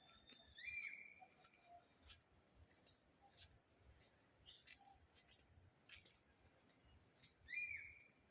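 Forest birds calling: one bird gives the same short whistled call twice, rising and then held level, about a second in and again near the end, among scattered faint chirps. A steady high insect hiss runs underneath.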